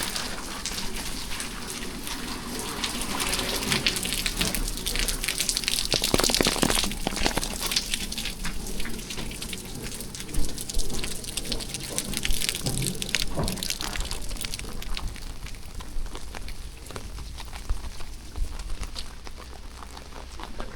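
Rain falling, a dense hiss thick with sharp individual drop hits; it eases a little in the last few seconds.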